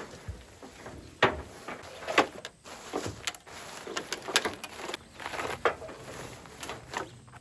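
A string of irregular knocks and clunks, about a dozen over several seconds, the loudest a little over a second in and again about two seconds in.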